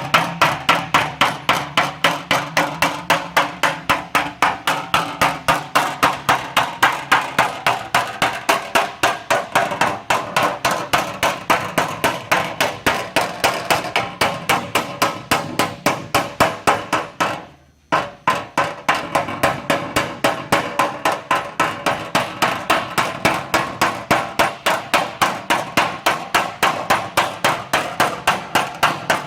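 Hammer striking a sheet-metal aircraft cowling panel in a rapid, even rhythm of about three to four blows a second, each with a short metallic ring, as an area of the panel is worked down into shape. The hammering pauses briefly about two-thirds of the way through, then carries on.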